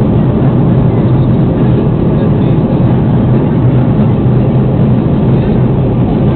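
Steady cabin noise inside an Airbus A330 airliner in flight before landing: a constant low rumble of engines and airflow, with no bumps or changes.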